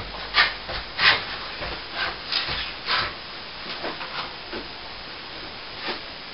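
Hand tool scraping on plaster in short, irregular strokes, the kind of scraping done when raking out and working cracks for repair.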